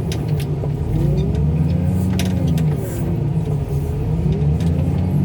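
Car crusher's engine and hydraulics working under load, the engine note swelling and sagging again and again, with scattered sharp cracks and pops from the vehicle being crushed.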